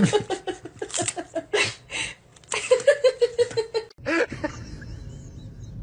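A person laughing hard, a quick run of repeated pitched laughs for about four seconds, then quieter.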